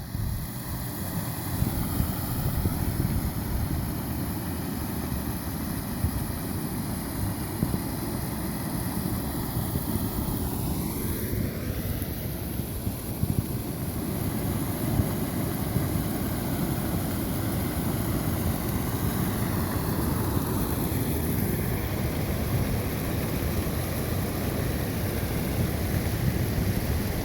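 Floodwater of a creek in flash flood rushing past in a steady, loud, deep churning noise.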